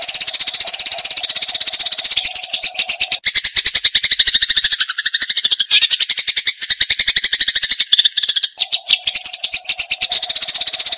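Eurasian tree sparrows in agitated 'fighting' chatter: a continuous, very fast run of sharp chirps, many per second. Through the middle the chirps are lower and fuller, and a faint steady hum sits under them near the start and end.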